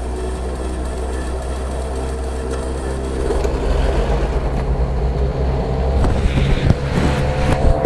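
Twin Cessna 320's piston engines running just after start-up, steady at first, then growing louder about three seconds in and louder and rougher again around six seconds.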